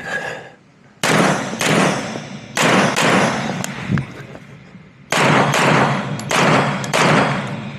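Pistol shots fired at IPSC targets, about eight, mostly in quick pairs about half a second apart. Each pair is a double-tap on one target. There is a pause of about a second and a half near the middle before the firing resumes.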